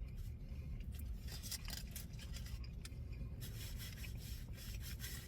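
A person chewing a bite of a chicken and hash brown croissant sandwich, with faint crackles and small clicks throughout, over a low steady hum.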